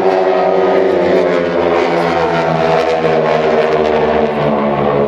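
Airshow aircraft engine passing low overhead, a loud steady drone with a stack of tones, some of which slide down in pitch about two seconds in.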